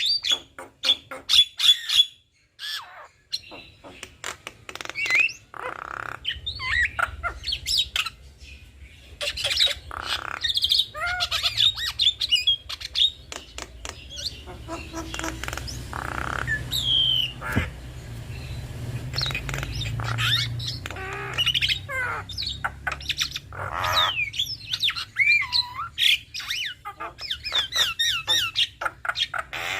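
A pair of Javan mynas calling back and forth: a dense, irregular run of harsh squawks, chattering clicks and short whistles.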